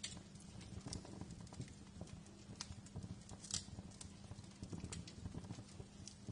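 Wood fire crackling: irregular sharp pops and snaps over a low, steady rumble, with a louder snap about three and a half seconds in.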